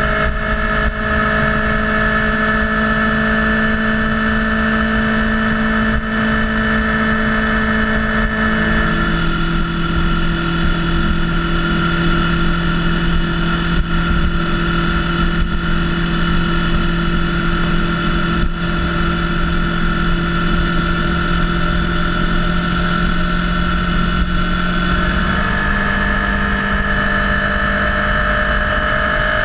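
Motorcycle engine running at a steady cruise with wind rumble on the microphone. Its note drops about nine seconds in and rises again near the end.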